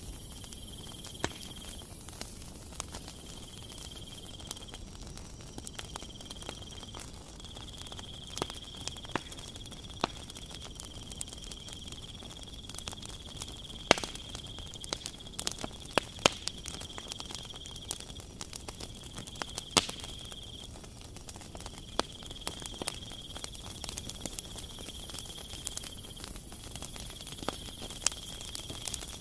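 Metal spoon clicking and scraping against a plastic mixing bowl as flour is stirred into a wet dough mixture, then hands pressing the crumbly dough together; irregular sharp clicks and taps.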